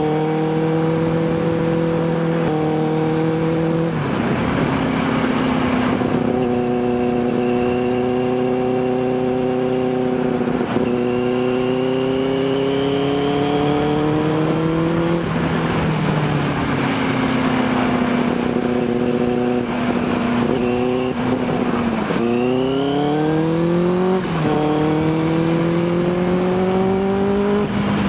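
Sport motorcycle engine pulling hard through the gears. Its pitch climbs and then drops back at each shift, several times over. In the middle it holds a steadier pitch, then it revs up sharply again twice near the end.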